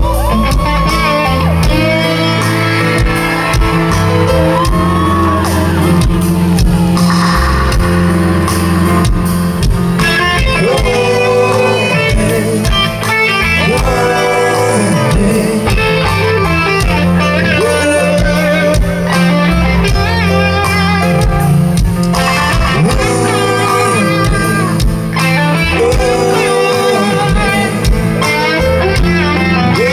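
Live reggae band playing an instrumental stretch, loud and steady, with a guitar carrying the melody over bass and drums.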